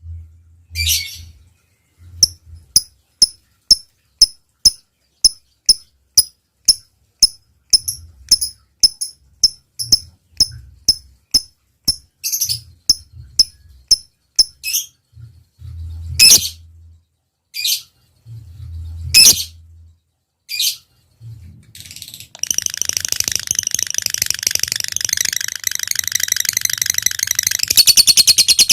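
Lovebird singing: a string of short sharp clicking chirps about two a second (the 'ngetik' call), then a few louder single calls, then, about two-thirds of the way in, a long unbroken rapid chattering trill, the 'ngekek panjang' of a lovebird in full song.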